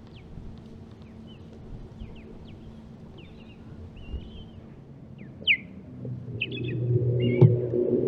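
Osprey calling: a series of short, high whistled notes, the loudest about five and a half seconds in. From about six seconds a low rumble builds up beneath the calls, with one sharp knock near the end.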